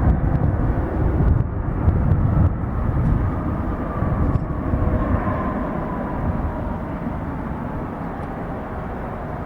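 Jet airliner's engines rumbling, with a whine that slowly falls in pitch. The rumble is strongest in the first couple of seconds and then eases off.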